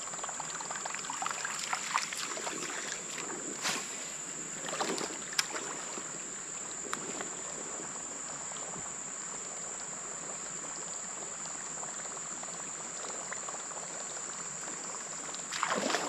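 Water lapping and trickling around a kayak, with a few light knocks and splashes in the first half and a steady high-pitched drone underneath. A louder splashing and rustling starts just before the end.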